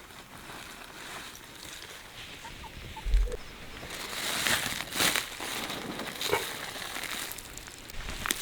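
Rustling and scraping handling noises, with a low thump about three seconds in and a run of louder, sharper rustling strokes from about four seconds on.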